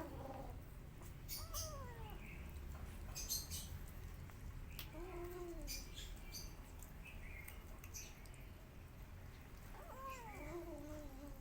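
Kittens meowing: three short cries that fall in pitch, about a second in, around the middle and near the end. Scattered small clicks and ticks come between them.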